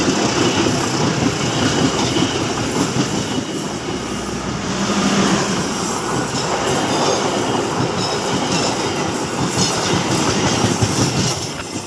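Train running along the track: a steady rumble of wheels on rail, with a short low tone about five seconds in.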